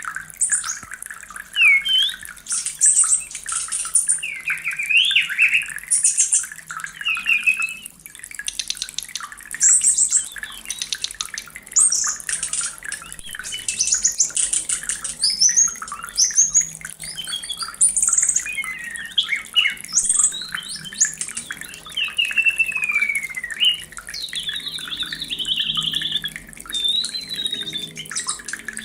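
White-rumped shama in breeding condition singing a long, varied song of whistles, rising and falling sweeps and rapid chirping trills, with hardly a pause.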